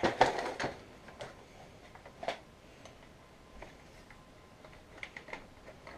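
A stiff wire tapping and scraping against the plastic of a vacuum cleaner's hose and housing as it is pushed in to shift a clog of pet hair. There is a cluster of light clicks at the start, a single click about two seconds in, and a few faint ticks near the end.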